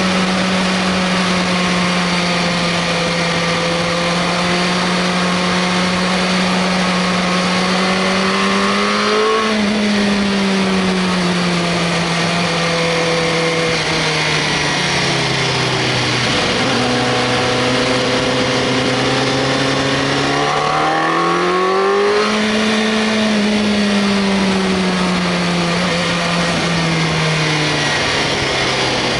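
Inline-four sport motorcycle running at speed, its engine note mostly steady, rising and falling with the throttle: it lifts briefly about nine seconds in, drops lower around sixteen seconds, and revs up again around twenty-two seconds before easing off. Steady wind rush runs under it.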